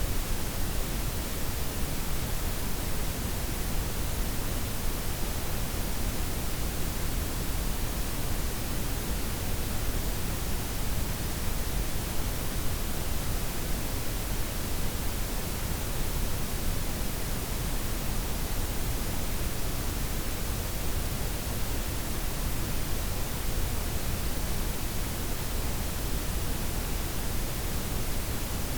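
Synthetic noise blend of white, pink and brown noise layered together: a steady, even hiss with a low rumble underneath, unchanging throughout.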